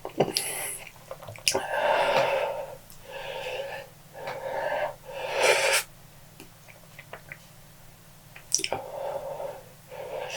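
A man breathing hard in and out through his mouth, about five loud wheezy breaths of about a second each with small mouth clicks between them. This is the pained breathing of someone reacting to the burn of the Paqui One Chip Challenge chip.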